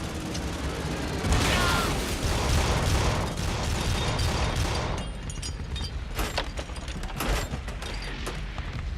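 Battle sound effects of a warship under air attack: a loud rushing blast about a second in, then anti-aircraft gunfire, many sharp shots in quick succession.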